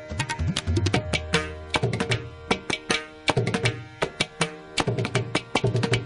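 Indian classical music: a fast passage of pitched hand-drum strokes, several a second, in Carnatic style.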